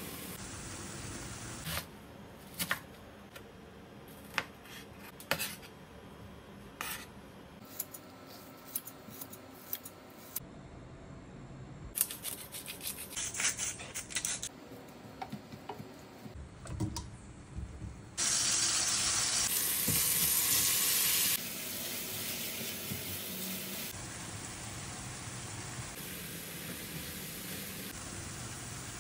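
Food-prep clicks and taps, then a tomato and chicken stir-fry sizzling loudly in oil in a frying pan for about three seconds. The sizzle then drops to a steadier, quieter one.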